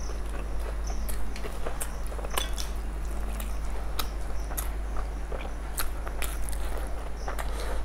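Two people chewing mouthfuls of masala fried rice, miked close, with wet mouth clicks and smacks at irregular moments. Fingers squish and mix rice on steel plates, over a steady low hum.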